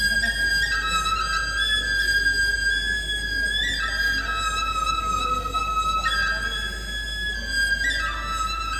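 Balinese gamelan music for a mekendang tunggal performance: a single sustained melody line moving up and down in held, stepped notes.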